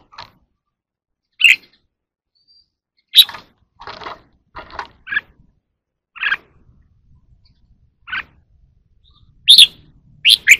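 Red-whiskered bulbul singing in short, sharp notes and brief phrases, one every second or two with clear gaps between.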